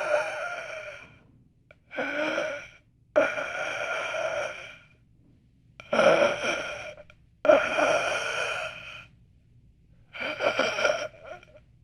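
A person's breathy, distressed gasps and sighs, about six in a row, each a second or so long, with short pauses between them: a horror sound effect.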